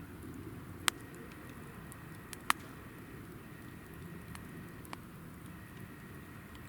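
Hinoki (Japanese cypress) firewood burning in a fire pit, with a low steady flame rumble. Two sharp pops stand out, about a second in and about two and a half seconds in, with a few smaller snaps later.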